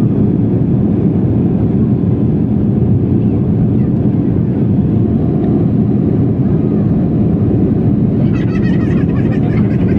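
Boeing 757-200 jet engines running loud and steady during takeoff, a deep, even rumble with no breaks.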